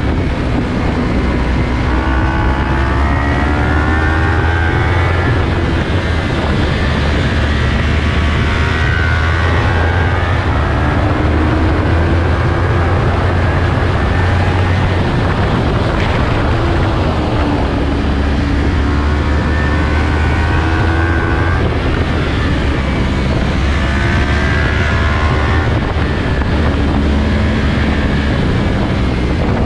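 Sport motorcycle engine accelerating hard and shifting up through the gears, its pitch climbing and dropping again several times, with a heavy wind rumble on the microphone underneath.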